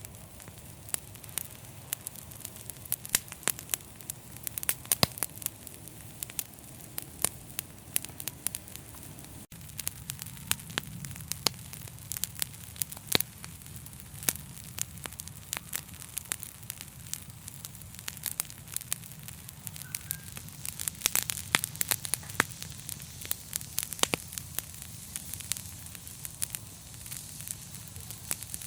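Fireplace fire crackling, with frequent irregular sharp pops and snaps over a steady low rumble of the flames.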